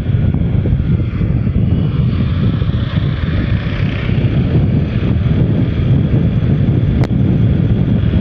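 Steady wind rumble on the microphone mixed with the running of a motorcycle riding along at speed. There is a single short click about seven seconds in.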